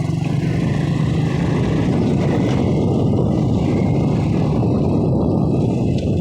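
Vehicle engine running steadily under a dense, rough wash of noise.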